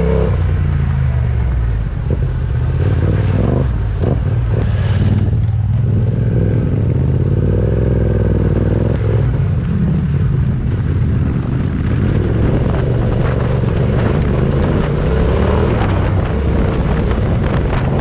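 Yamaha Ténéré 700's parallel-twin engine pulling up a steep, rocky dirt track, its revs rising and falling with the throttle. Scattered knocks and clatter from the bike over rough ground come through, most around four seconds in and again in the later part.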